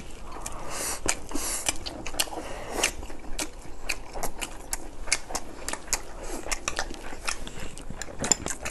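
Close-miked chewing and lip-smacking of people eating rice and meat: many quick wet clicks and smacks in an uneven run.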